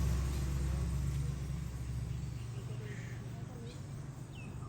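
A low vehicle rumble that fades away about halfway through, with faint chirps near the end.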